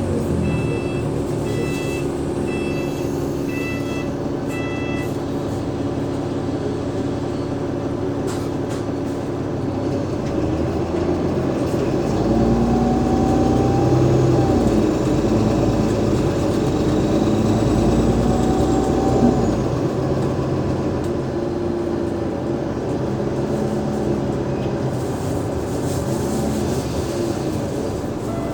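Alexander Dennis Enviro500 MMC double-decker bus heard from on board: its Cummins ISL8.9 diesel engine and ZF Ecolife six-speed automatic gearbox pull up through the gears. The pitch rises and falls several times, loudest about halfway, then settles to a steadier run. A row of about six short electronic beeps sounds in the first few seconds.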